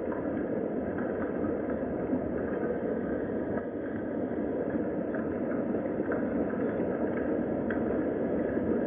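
Steady rain, an even wash of noise with a few faint scattered drip-like ticks.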